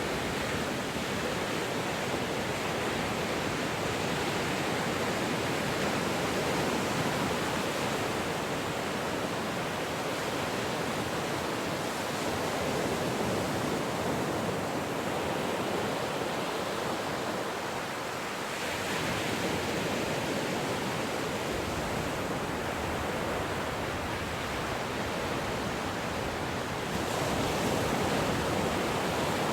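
Ocean surf: a continuous wash of waves rolling in and breaking, easing briefly about eighteen seconds in and swelling again near the end.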